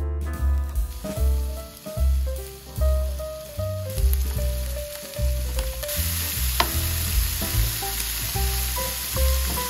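Food sizzling in a hot frying pan, the sizzle growing louder about six seconds in, with a few sharp ticks, over background music with a steady bass line.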